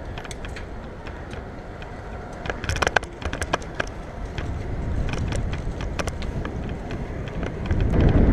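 Steady low road and wind noise from a moving road bike on city streets, with scattered clicks and rattles from the bike, a cluster of them about three seconds in. The noise grows louder near the end.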